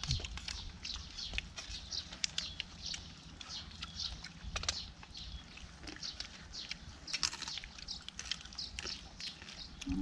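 Birds chirping: many short, high calls in quick succession, with a few sharp clicks and a low rumble underneath.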